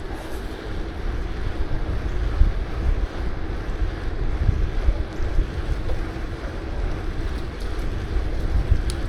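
Wind buffeting the microphone of a camera on a moving bicycle: a heavy, uneven low rumble with a steady hiss above it.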